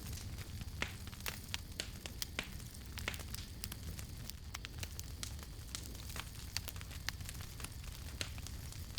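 Wood campfire burning, with frequent sharp irregular crackles and pops over a steady low rumble of the flames.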